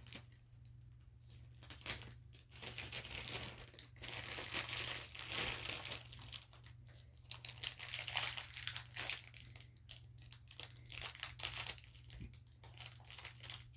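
Packaging being crinkled and torn open by hand, in irregular crackling bursts with short pauses between them.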